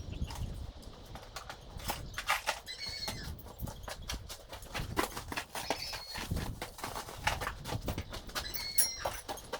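Irregular knocking and clattering of tools and materials being handled and put away during a cleanup, with three short high chirps or squeaks in between.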